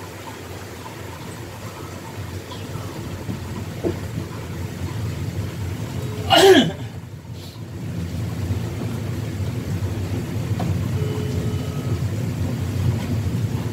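Low rumble of a train running through a station, growing louder from about eight seconds in as it picks up speed. About six and a half seconds in comes one short, loud sound with a falling pitch.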